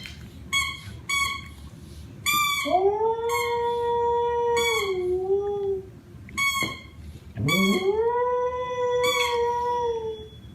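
A dog howling: two long drawn-out howls, each rising at the start and then held, with short high yips before and between them.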